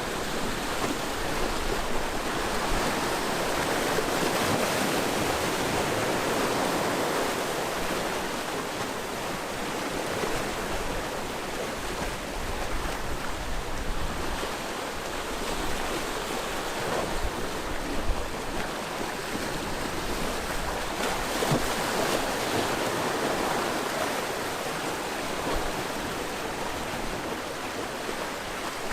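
Sea surf washing against the shore: a continuous rush of water noise that swells and eases every several seconds as waves come in.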